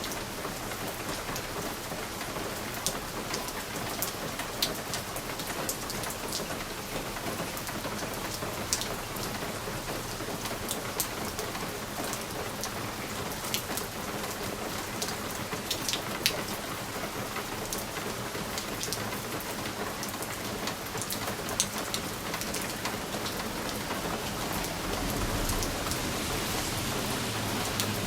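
Steady rain on a window: an even hiss dotted with sharp ticks of drops striking the glass. A low rumble swells in near the end.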